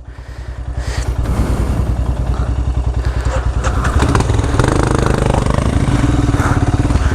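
Motorcycle engine running at idle, growing louder about four seconds in.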